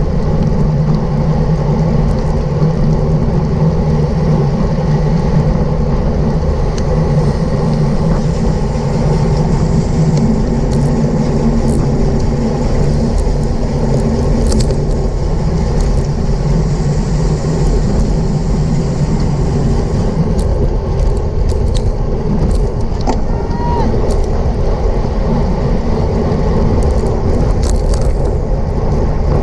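Steady rush of wind over a bicycle-mounted camera's microphone at racing speed, with tyre and road noise underneath and a few faint clicks in the second half.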